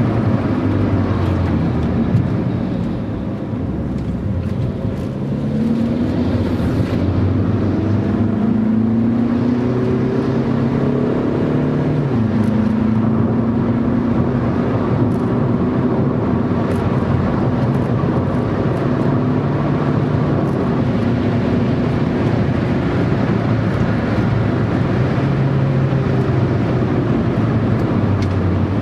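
Car engine and road noise heard from inside the cabin while driven hard on a racetrack: the engine note dips for a few seconds near the start, then climbs as the car accelerates, drops suddenly at a gear change about twelve seconds in, and settles into a steady drone.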